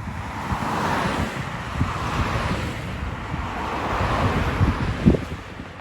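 Wind buffeting the microphone in low gusty thumps, over a rushing noise that swells about a second in and again around four seconds in.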